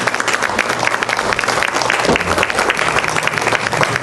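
Congregation applauding, many hands clapping densely and steadily.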